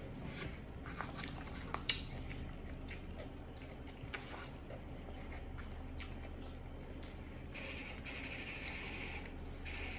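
A person chewing and eating food close to the microphone: soft wet squishes and scattered small clicks over a low steady hum.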